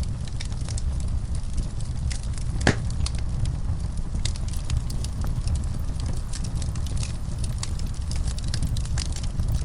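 Wood logs burning in a fireplace: a steady low rumble of flame with frequent small crackles and one louder pop near the start.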